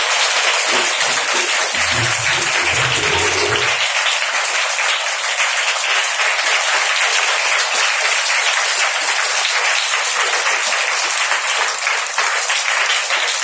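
Audience clapping steadily throughout: sustained applause at the end of a performance.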